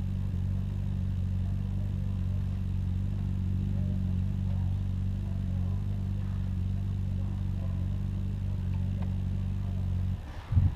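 Honda Gold Wing motorcycle engine running at a steady drone, as heard while riding. Near the end the drone stops abruptly and a loud thump follows.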